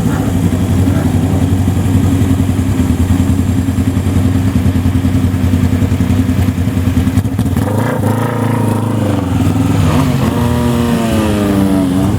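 Motorcycle engines running steadily at low revs, then about eight seconds in a bike is revved, its pitch rising and falling, and near the end one's engine note drops away as it rides past.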